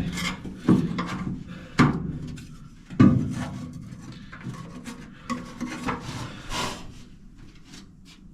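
Hand scraper digging cracked seam sealer out of the seam in a Mk2 Ford Escort's rear wheel arch: a series of sharp scrapes and knocks, the loudest about three seconds in, then softer scraping strokes that die away near the end. The sealer is still soft underneath where it was laid on thick.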